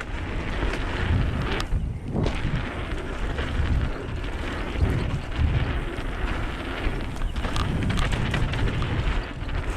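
Heavy wind rumble on the microphone of a rider-mounted camera as a 2014 Transition Covert 26er mountain bike descends a dirt trail at speed, with tyre and frame rattles and small knocks over the ground.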